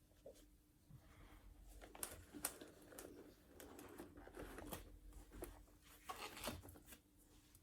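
Faint handling noises: scattered light clicks, taps and scrapes, thickest in the middle, over a faint steady hum.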